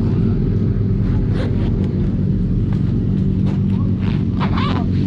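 Steady low engine hum, even in level throughout, with faint voices and a few clicks about a second and a half in and again near the end.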